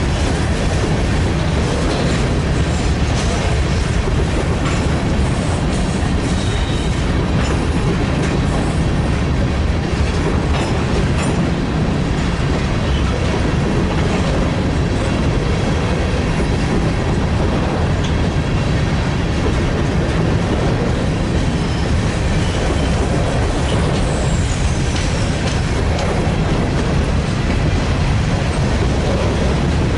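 Freight train cars rolling past on the rails, a steady, unbroken wheel-and-rail noise.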